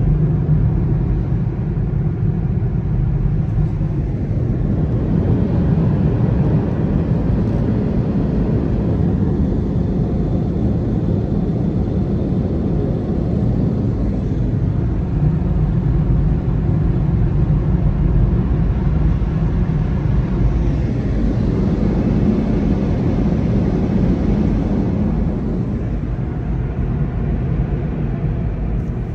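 Turbo Dry air blowers of an in-bay automatic car wash running steadily as a deep rumble, the car wash's final drying stage; the sound eases off near the end.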